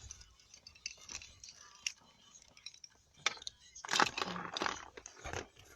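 Light clicks and jangling of handled objects, with a louder rustle about four seconds in.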